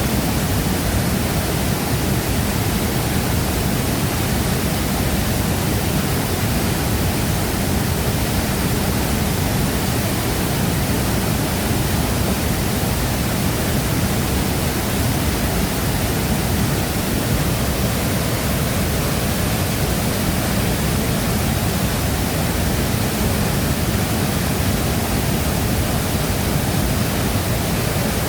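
Waterfall: a large volume of falling water crashing into its plunge pool, a loud, steady, unbroken rush with a deep low rumble under it.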